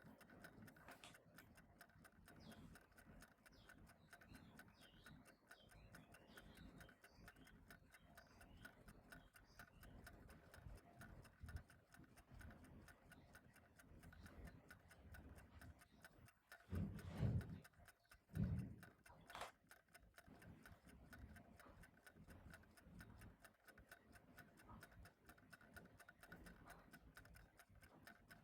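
Faint, steady ticking of a clock. A little past the middle comes a brief, louder low bumping noise, followed by a single click.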